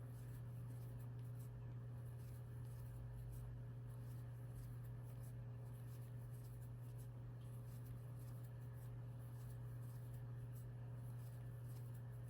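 Faint scratchy rustling and soft ticks of a crochet hook pulling yarn through stitches, over a steady low hum.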